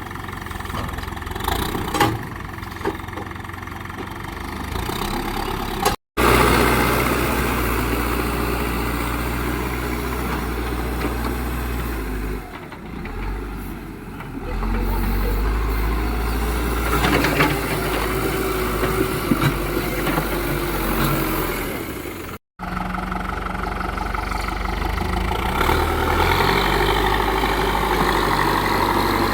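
Diesel engines of a backhoe loader and tractors running at work, steady and low, with a few sharp knocks. The sound cuts out abruptly twice, about six seconds in and again near two-thirds of the way through.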